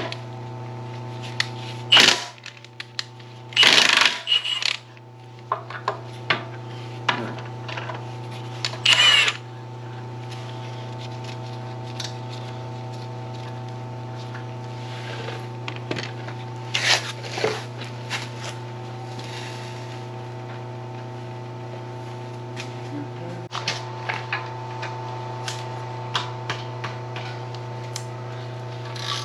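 Hand tools clicking and clanking on metal while a roller's drive brake is being unbolted, with several loud metal clanks spread through and many small clicks between them. A steady low hum runs underneath.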